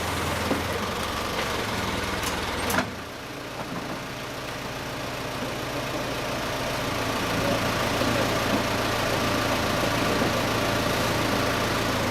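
An engine or motor running steadily with a low hum, with one sharp knock about three seconds in.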